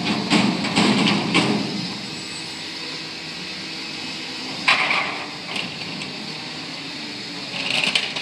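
Front-loader garbage truck at work: a quick series of metal knocks and clanks, then the engine running steadily, with a short hiss about five seconds in and another near the end.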